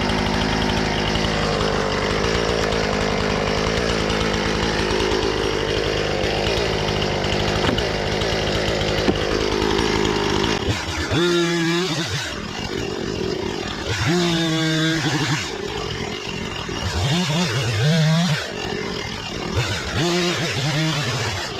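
Husqvarna 460 Rancher two-stroke chainsaw running steadily under load, cutting into poplar for about ten seconds. It then revs up and down several times in short bursts.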